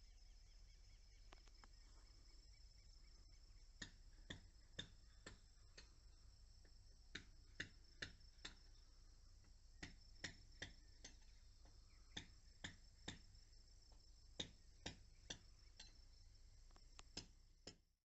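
Crickets trilling steadily and high-pitched, with sharp irregular clicks from about four seconds in, sometimes two or three a second. Everything cuts off at the very end.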